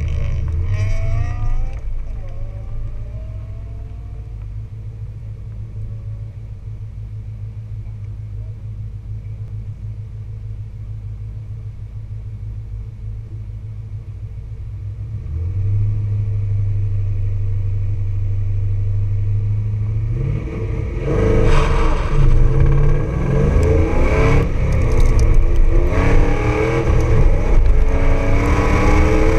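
Pontiac Firebird Trans Am engine idling at a standstill, its note stepping up and held higher about halfway through. About two-thirds in the car launches and the engine runs hard, revs rising and falling repeatedly, with road and wind noise filling in above it.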